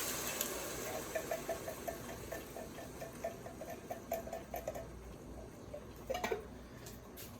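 Coconut milk going into a pot of frying chicken: the sizzle dies down, then a run of quick, even ticks for a few seconds, and a couple of light knocks near the end.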